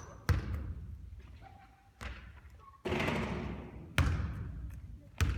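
A basketball bouncing on a gym floor: about five sharp thuds roughly a second apart, each ringing out in a large echoing hall.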